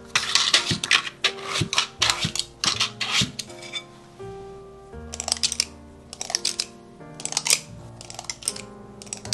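Soft background music with held notes, over rapid clicks and taps of baking utensils against dishes, in two clusters: one through the first few seconds and another in the second half.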